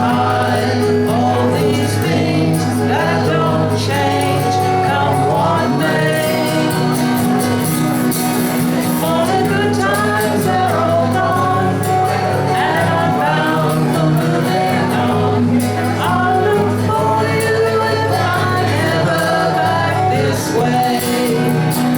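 Live performance of a folk song: singing over instrumental accompaniment, continuing steadily.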